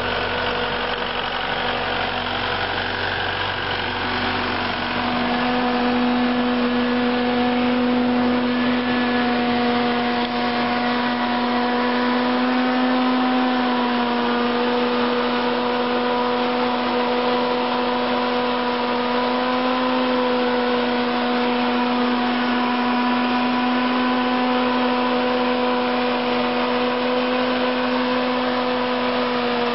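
YTO 404 tractor's diesel engine running steadily. About five seconds in its sound changes and grows a little louder, then it holds an even note.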